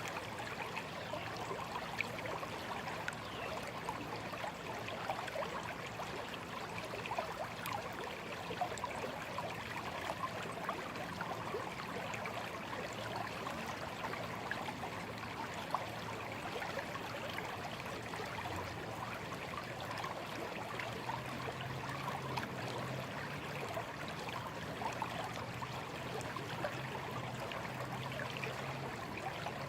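Small, slow stream running and babbling steadily over stones. A faint low hum sits beneath it and becomes a little more noticeable about two-thirds of the way through.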